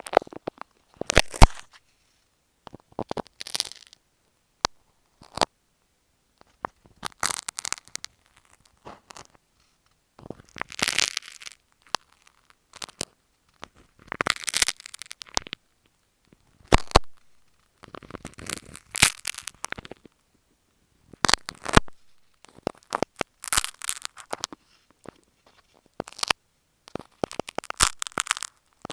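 Push pins handled against an earphone microphone, close up: irregular bursts of crackling and scratching every second or two, with a few sharp clicks between them.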